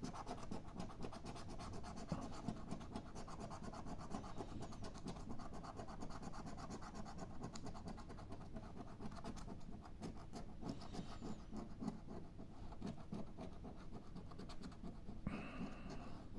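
Continuous rapid scratching of the latex coating off a Mission Nature scratch-card ticket.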